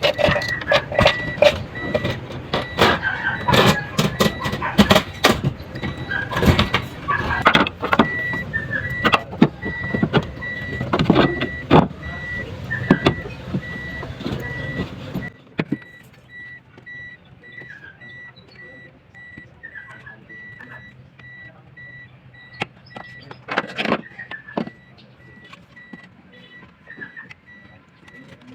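Clattering and knocking of tools and metal parts as a car is reassembled after a new fuel filter has been fitted. The clatter stops suddenly about halfway through, leaving a few knocks near the end, while a short high-pitched beep repeats steadily throughout.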